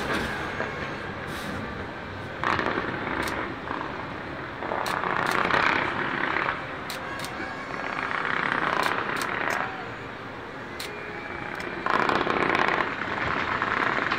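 Fireworks display going off without a break: a steady rumble of bursts with scattered sharp cracks, and several louder surges of crackling lasting a second or two each.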